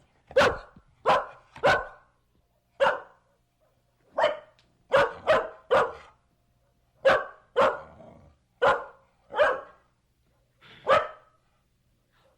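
Medium-sized dog barking: about thirteen short barks in loose bunches of two to four, with a pause near the end.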